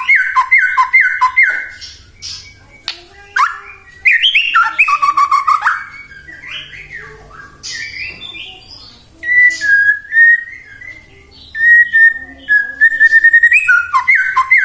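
White-rumped shama (murai batu) singing loudly in bursts: repeated down-slurred whistles, quick high chips and harsh notes, broken by short pauses, with a run of level whistled notes near the end.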